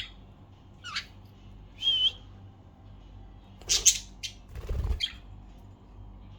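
Budgerigars chirping and whistling: a string of short, separate high calls, one a brief warble about two seconds in and the loudest a sharp squawk near the middle.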